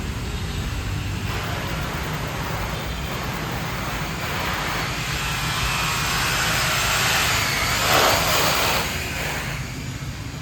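City street traffic with a steady engine and tyre hum; one motor vehicle passes close, getting louder to a peak about eight seconds in and then fading.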